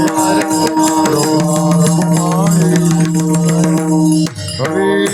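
Devotional bhajan music: long held notes over a fast, even drum and hand-percussion beat. The music drops out briefly about four seconds in, then starts again.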